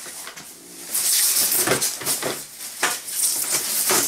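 Packaging being handled while a coffee maker is unboxed: loud rustling and crinkling starting about a second in, with a few knocks.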